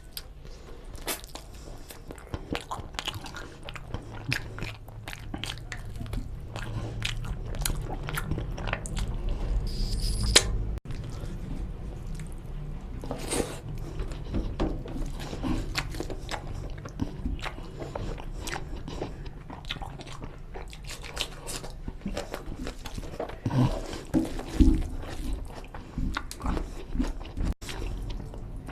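Close-miked eating of mutton nalli curry with rice: steady chewing and biting, with many short clicks and crunches.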